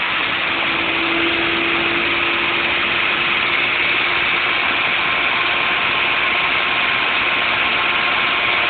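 BMW M52B28 2.8-litre inline-six idling steadily on its first start, heard close to the tailpipe.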